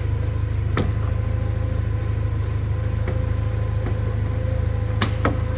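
1986 Porsche 944 Turbo's turbocharged four-cylinder engine idling steadily, running smoothly with no lifter noise. A sharp click comes about a second in, and two more close together near the end.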